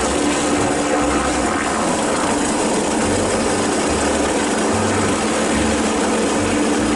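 Police helicopter hovering low: steady turbine whine and rotor noise with a constant hum.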